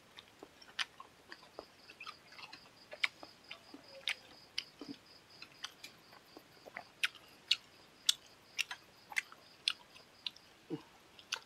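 Close-up eating sounds: wet chewing and lip smacks from a man eating rice with chicken curry by hand. They come as short, sharp mouth clicks, about one or two a second at uneven spacing.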